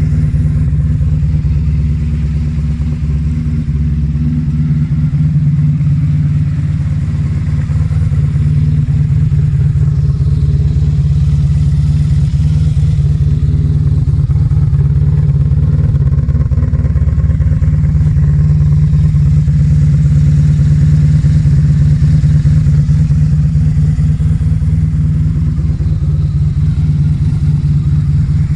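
1987 Honda VF1000F2's V4 engine idling steadily, a loud, deep exhaust note through drilled mufflers with the dB killers removed.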